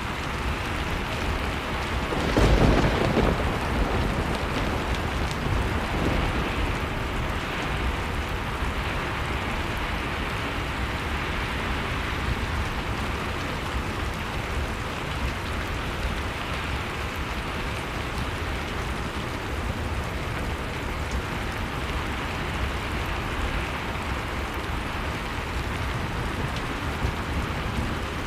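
Fire crackling in a fireplace over the steady noise and low rumble of blizzard wind, with one louder burst about two and a half seconds in.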